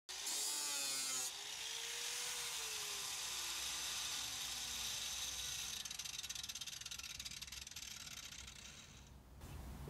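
Power grinder whirring as it grinds fiberglass, a hissing abrasive sound with a motor tone that rises briefly and then sinks slowly in pitch as it bears down; the grinding stops about nine seconds in.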